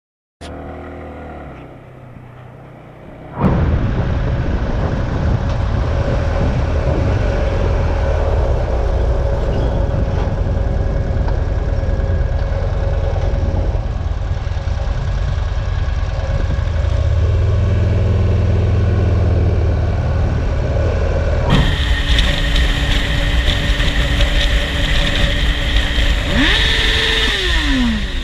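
On-board motorcycle riding noise: engine running and wind rushing past, cut abruptly between clips. In the last part a steady tone sounds, and near the end a pitch falls.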